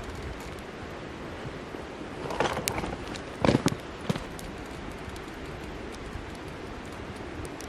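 Steady outdoor wind noise, with a few short knocks and rustles of something being handled about two and a half and three and a half seconds in, then one click.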